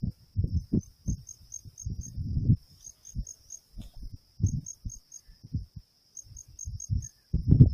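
Wind buffeting the microphone in irregular gusts of low rumble, over a steady high thin whine and crickets chirping in quick runs of four or five, a run about every second and a half.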